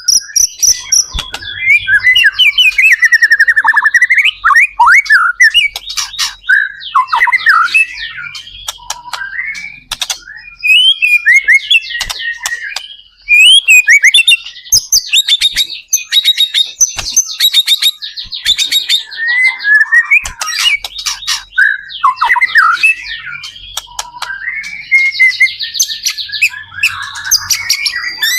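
White-rumped shama (murai batu) singing without pause: a loud, fast-changing song of whistled glides, rapid trills and harsh chattering runs. It is the bird's full, vigorous 'gacor' song.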